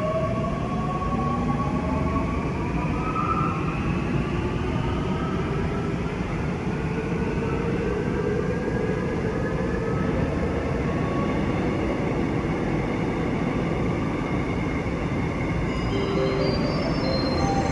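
Seoul Subway Line 9 electric train running between stations, heard from on board: a steady rumble with the motor whine climbing in pitch over the first few seconds as the train gathers speed. A short series of stepped high tones sounds near the end.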